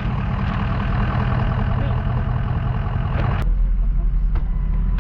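Truck engine running with road and wind noise while driving slowly. About three and a half seconds in, the hiss drops away suddenly, leaving a deeper steady rumble.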